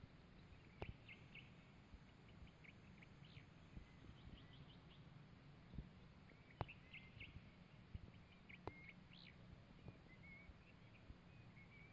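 Faint songbirds chirping: short high chirps and brief trills scattered throughout, with a few sharp clicks and a low background rumble.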